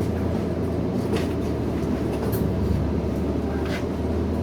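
SMART diesel multiple-unit train running along the track, a steady low rumble heard from on board, with a few light clicks.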